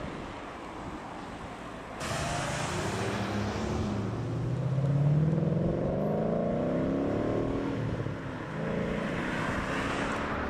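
A car engine accelerating hard: about two seconds in its note comes in abruptly and climbs in pitch, loudest about five seconds in, then eases off, with another car's engine rising again near the end.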